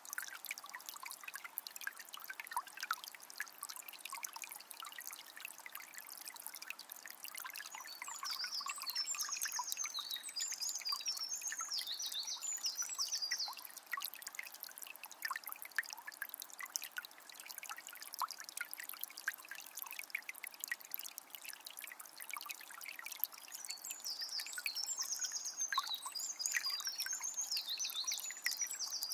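Shallow forest river flowing steadily, trickling and gurgling over stones. Two bouts of high bird chirping come through, about a third of the way in and near the end.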